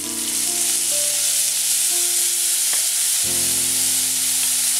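Wet ground coconut paste sizzling steadily as it is poured into hot coconut oil with fried mustard seeds, shallot and curry leaves. Soft background music of held notes plays underneath.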